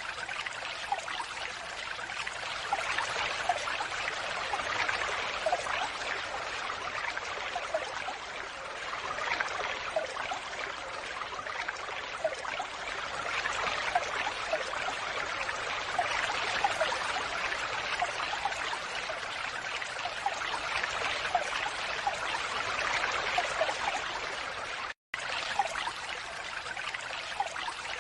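Falling water splashing and trickling steadily, with small droplet plinks scattered through it. A split-second gap breaks the sound about 25 seconds in.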